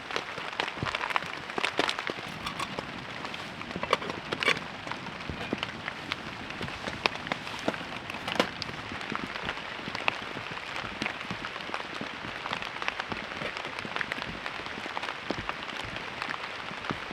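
Steady rain falling, with many separate drops landing as sharp ticks.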